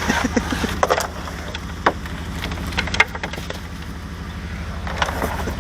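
A vehicle engine idling steadily, with scattered short knocks and clicks of objects being handled, the sharpest about three seconds in.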